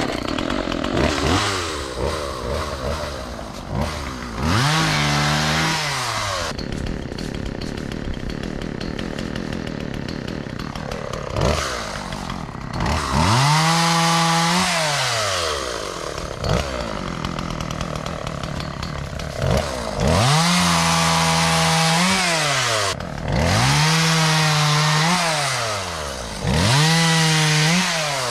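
Husqvarna 36 two-stroke chainsaw cutting wood. The engine is throttled up and held at high revs several times, then drops back toward idle between cuts.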